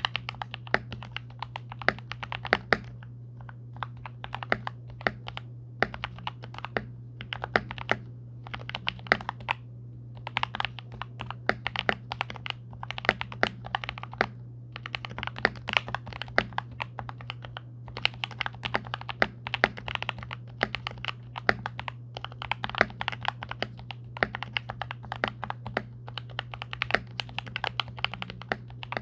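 Typing on a 66% hotswap mechanical keyboard with lubed Durock Golden Cap V2 switches, plate-mounted stabilizers, neoprene case foam and a three-layer tape mod: runs of quick keystrokes with brief pauses between them, over a low steady hum.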